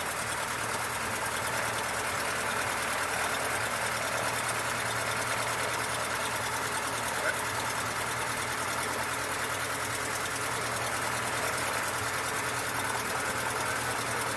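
Cessna 152's four-cylinder Lycoming engine idling steadily, with a brief click about halfway through.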